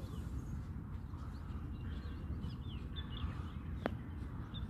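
Small birds chirping in many quick, short calls over a steady low rumble, with one sharp click near the end.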